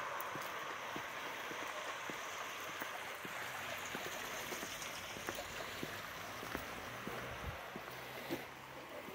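Rain falling on a wet paved street: a steady hiss with many irregular drops ticking close by.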